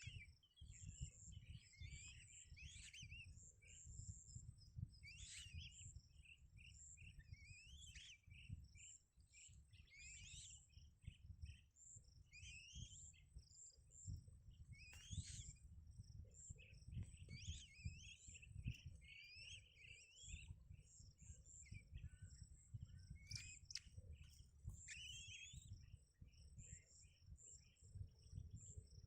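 Small birds chirping and calling in quick, varied phrases, over a fast high-pitched ticking trill and a faint low rumble.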